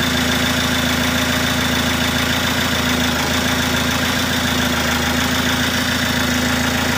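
Ford Focus engine idling steadily, with a slight change in its note about three seconds in.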